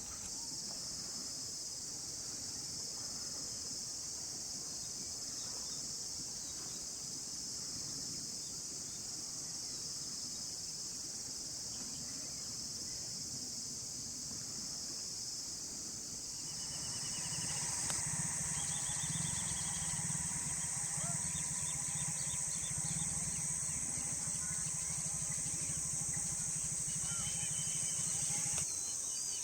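Steady high-pitched chorus of insects, with small birds chirping and whistling over it in the second half.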